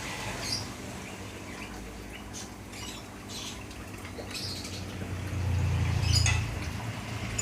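Small birds chirping and tweeting in short scattered calls over a steady low hum. The hum swells for a second or so about five seconds in.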